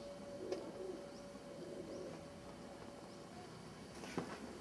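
Faint birdsong outdoors, with a dove cooing and small rising chirps repeating about every half second. A light knock comes near the end.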